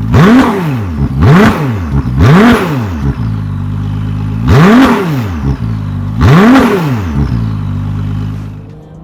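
Ferrari 296's twin-turbo V6 idling and revved in five quick blips, each climbing and dropping straight back. It runs through sport catalytic converters with the petrol particulate filter removed and retuned software.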